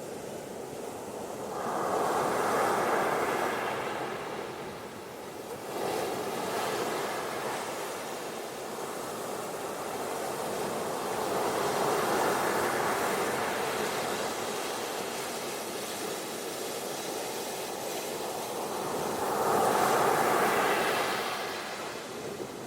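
Ocean waves breaking and washing up a beach: a rushing noise that swells and fades in slow surges, about four in all, the loudest near the end.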